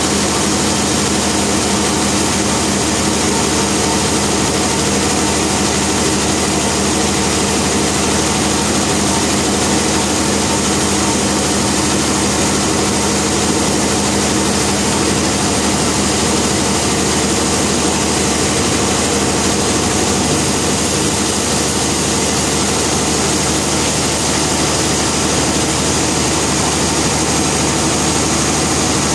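Sawmill machinery running with a loud, steady drone and hiss that does not change.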